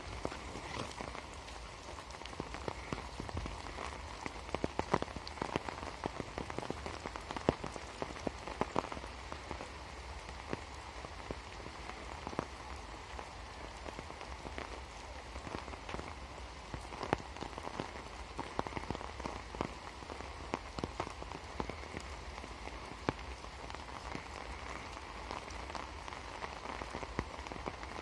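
Rain falling steadily, a constant hiss scattered with many sharp taps of individual drops.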